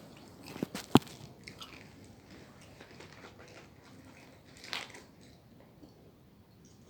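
A person eating close to the microphone: two sharp bites or clicks about a second in, then soft chewing and mouth sounds, with a brief crunchy burst near the end.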